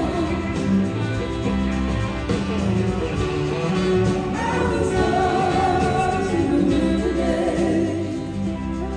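A live band playing, with voices singing together in held, wavering notes over the instruments; the level eases a little near the end.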